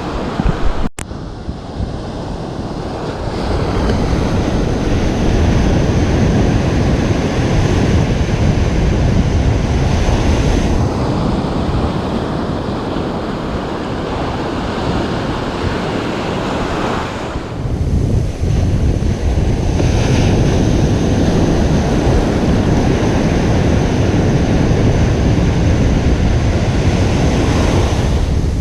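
Ocean surf washing onto a beach as a continuous, loud wash that swells and eases, heavy in the low rumble, with wind on the microphone. There is a momentary dropout about a second in.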